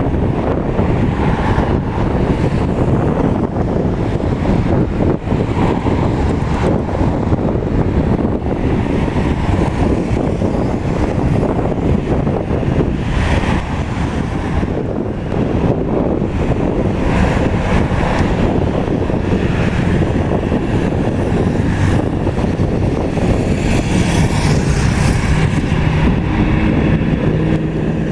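Jet airliner engines giving a loud, steady, deep rumble, with wind buffeting the microphone. The hiss grows brighter about three-quarters of the way through, and a few steady tones come in near the end.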